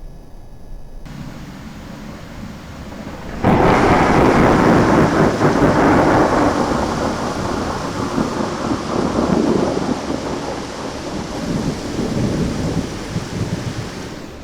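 A close thunderclap: a sudden loud crack about three and a half seconds in, then a long rolling rumble that surges and slowly fades over about ten seconds, with rain underneath.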